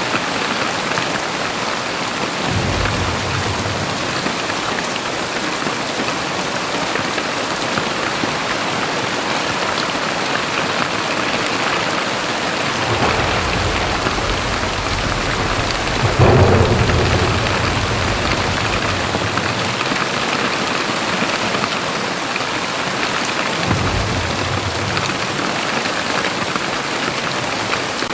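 Heavy rain pouring steadily, with low rumbles of thunder, one louder, sharper peal about two-thirds of the way through.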